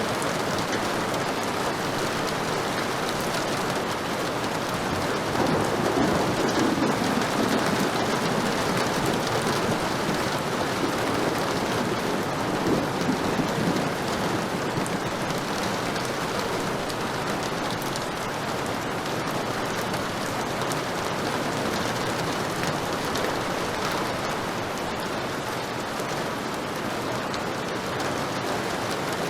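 Heavy rain pouring steadily, with a low rumble of thunder swelling about five seconds in and fading over the next few seconds.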